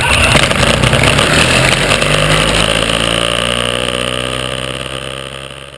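Ultralight trike's propeller engine just after starting, rough for about a second and then settling into a steady idle with the throttle down.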